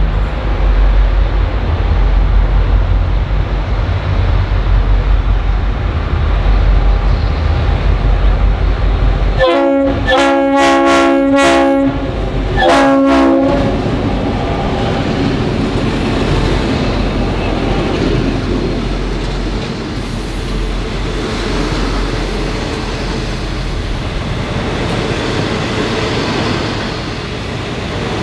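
V/Line N class diesel locomotive approaching with its engine rumbling, then sounding its multi-tone horn twice about ten seconds in, a long blast and a shorter one. The train's wheels then roll on the rails as the passenger carriages pass close by.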